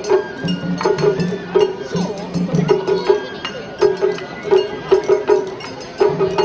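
Japanese festival (matsuri) music: a quick rhythm of drum strikes mixed with metallic clinks.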